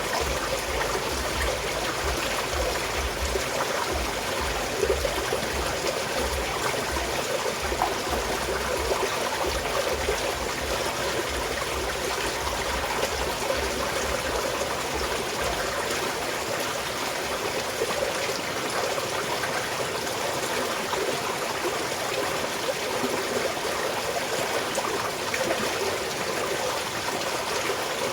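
A small mountain stream flowing and trickling over rocks in a steady, continuous babble.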